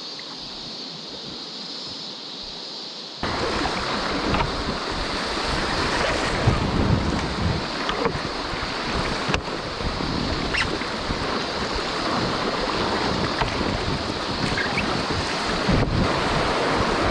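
River water rushing and splashing around a packraft, with wind buffeting the microphone; the noise jumps suddenly louder about three seconds in.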